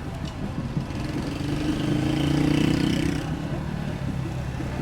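An engine passes close by, swelling to its loudest about halfway through and then fading.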